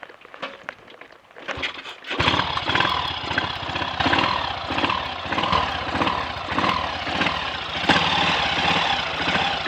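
Triumph Sports Cub's single-cylinder four-stroke engine being started: a couple of knocks, then it catches about two seconds in and runs on with an even beat.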